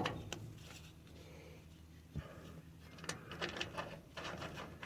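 Faint, scattered clicks and light metal knocks from bolts being fitted loosely by hand, with a cluster of them in the second half.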